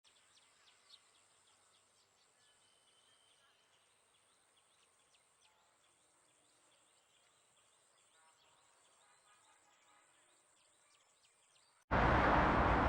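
Faint birdsong of scattered short chirps over a thin steady high tone. Near the end a loud, steady rushing noise cuts in abruptly.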